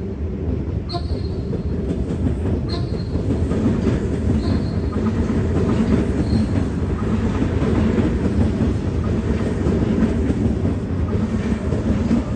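A heavy vehicle rumbling past close by: a loud, steady low rumble with sharp clicks about every two seconds that fade out over the first half.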